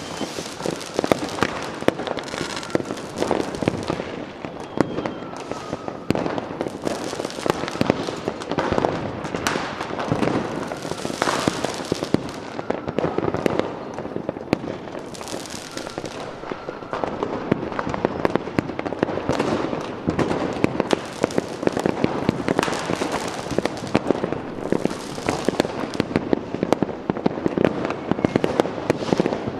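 Fireworks going off continuously: a dense run of crackling bangs and pops, with hissing bursts and faint whistles among them.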